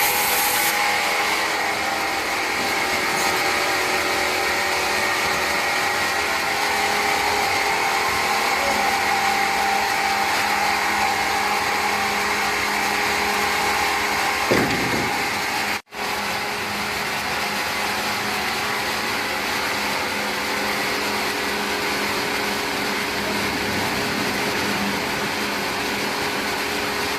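Large sawmill machinery running steadily, a continuous mechanical noise with a few steady tones. There is a single knock about halfway through, and the sound breaks off for an instant just after it.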